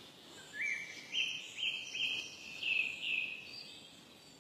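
A bird singing a short phrase of about six quick chirping notes, each sweeping up and then down, over a faint outdoor hiss.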